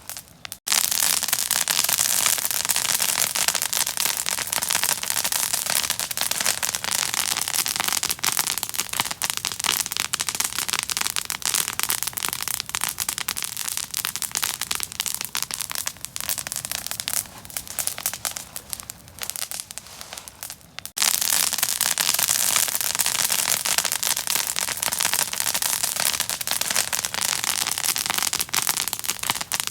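Fire crackling and popping, a dense run of sharp snaps. It starts suddenly just after the beginning, eases a little in the middle, and jumps back up suddenly about two-thirds through.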